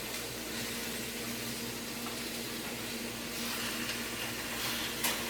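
Steak slices sizzling steadily in a hot pan, over a constant low hum, with one short click about five seconds in.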